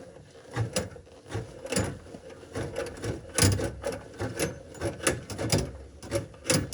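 Hand drum drain snake being twisted with its cable locked, a run of irregular clicks and scrapes as the steel cable turns and rubs inside the drain pipe, working against a hard spot in the clog.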